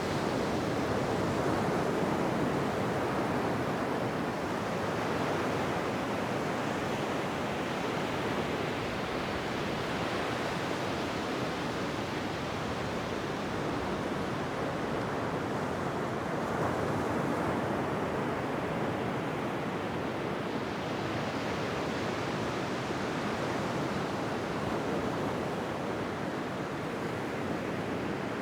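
Ocean surf washing onto a beach: a continuous rush of waves that swells and eases slowly every several seconds.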